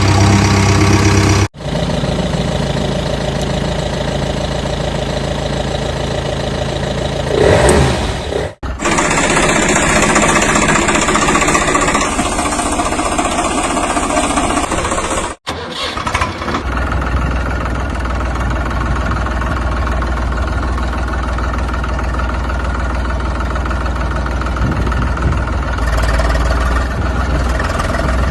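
A motor engine running steadily, in several stretches joined by abrupt cuts.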